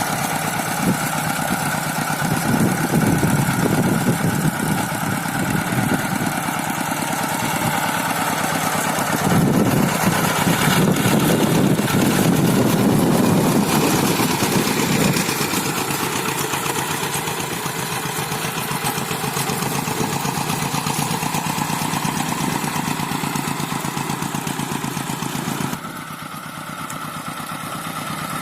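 Rice-field tractor engine running with a rapid, steady chugging. It swells louder twice, early on and again in the middle, and drops quieter a couple of seconds before the end.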